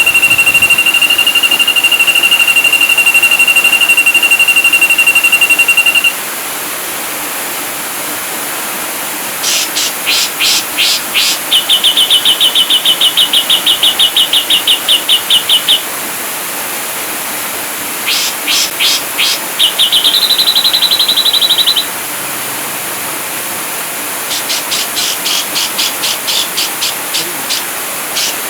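Ashy drongo song: a long, high, rapid trill for about six seconds, then bouts of fast ticking notes alternating with short buzzy trills pitched a little higher, over a steady hiss.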